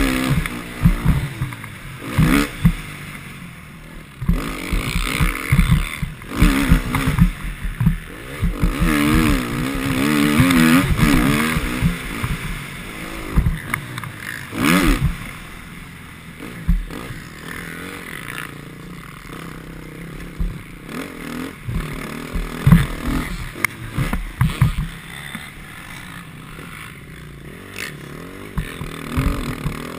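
Motocross bike engine revving up and down as it is ridden around the track, with frequent loud low thumps and rushes of noise over it.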